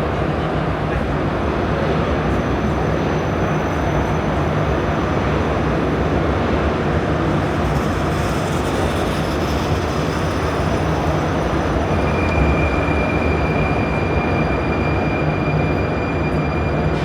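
Prague metro line A train running with a steady rumble; a high steady whine joins about twelve seconds in.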